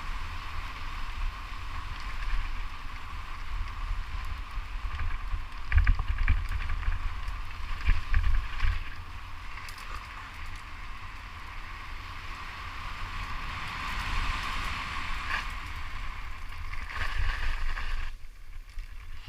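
Wind buffeting the microphone during a fast mountain-bike descent, with a steady hum from the moving bike and sharp rattles and knocks from the bike jolting over rough ground. The noise drops off abruptly near the end.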